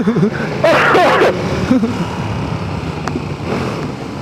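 Motorcycle on the move, heard from a helmet microphone: a steady low engine hum under wind rush that slowly fades, with a brief voice sound in the first second or so.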